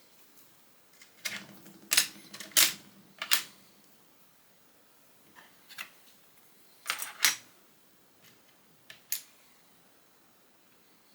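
Plastic Lego bricks being handled and pressed together: a run of sharp clicks and snaps, four close together early, then a few more spaced out.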